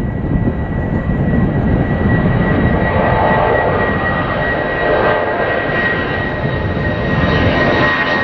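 Airliner's jet engines at takeoff power: a steady high whine over a deep rumble, growing a little louder about two to three seconds in.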